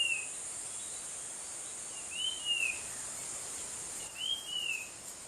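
Tledekan gunung, a small mountain songbird, giving a short whistled call three times, about two seconds apart, each note rising then falling. A steady high insect drone runs underneath.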